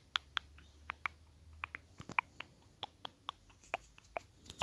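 ASMR clicking sounds close to the microphone: about a dozen soft, sharp clicks at irregular intervals.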